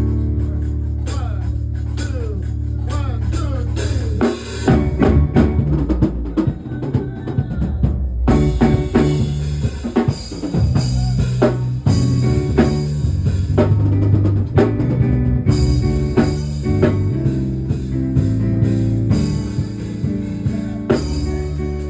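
Band music: a drum kit playing a busy pattern of snare and bass-drum hits over sustained, changing low bass notes. The drumming comes in a few seconds in, with a brief break partway through.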